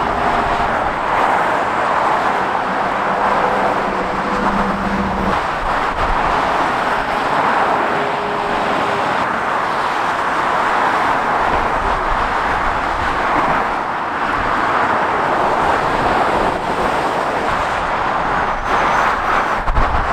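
Steady motorway traffic noise: the tyres and engines of passing cars and lorries.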